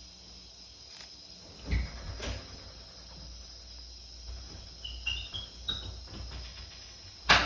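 Steady high-pitched chorus of crickets and other insects, with a few short chirps about five seconds in. Two dull thumps come about two seconds in, and a sharp knock near the end is the loudest sound.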